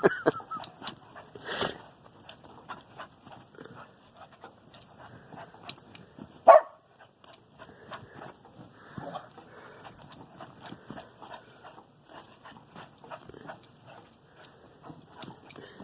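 A dog bounding through deep snow, with steady scattered crunching, and one short, loud bark about six and a half seconds in.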